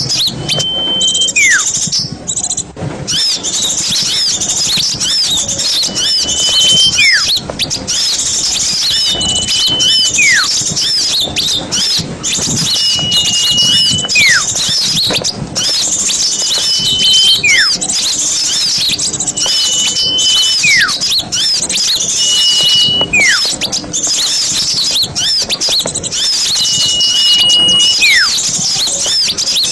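Many small birds twittering and chirping without a break, in a dense high chorus. Through it a clear two-part whistle repeats about every three to four seconds: a short level note, then a quick falling note.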